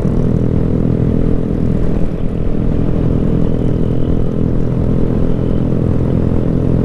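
Motorcycle engine running at a steady speed while riding, with low wind rumble.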